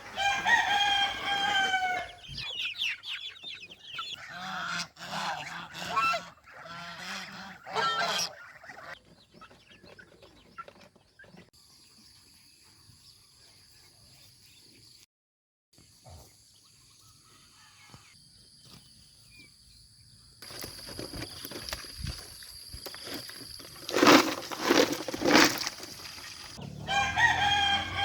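A rooster crows at the start and again near the end, with chickens clucking in between. Through a quieter middle stretch a thin steady high tone is heard, and a few loud sharp noises come about three-quarters of the way through.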